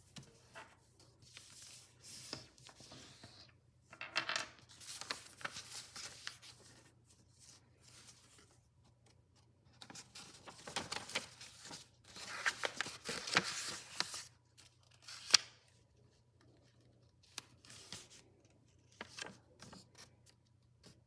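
A sheet of paper being folded and creased by hand: irregular bursts of crackling rustle, with one sharp crisp snap about three-quarters of the way through.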